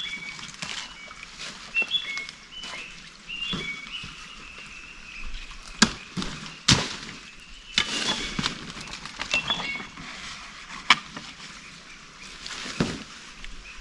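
A bird singing a series of short whistled notes that step up and down in pitch, mostly in the first few seconds and again briefly later. Sharp knocks or snaps break in several times, the loudest about six, seven and eleven seconds in.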